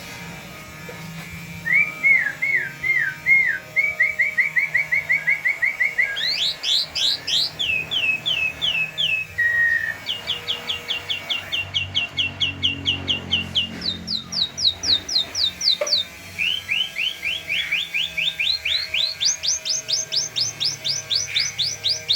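Jalak (starling) singing continuously in fast runs of identical whistled notes, several a second. Each run sits at its own pitch: drooping notes around the middle at first, then quicker, higher trills, climbing highest near the end.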